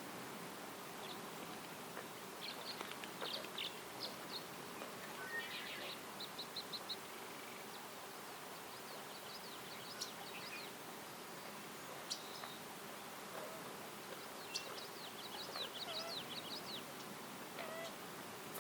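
Small songbirds chirping, with several quick runs of rapid high notes, over a steady background hiss of forest ambience.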